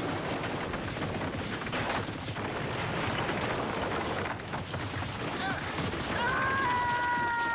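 Animated battle sound effects: a continuous barrage of blasts and rumbling. About six seconds in, a high held tone with overtones joins the din and slides slightly at the end.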